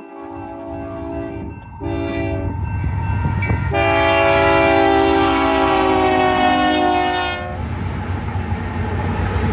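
Diesel freight locomotive's multi-chime air horn sounding three blasts: a long one, a short one, then a long held one whose pitch sags slightly toward the end as the locomotive passes. Low rumble of the train runs under it and carries on after the horn stops.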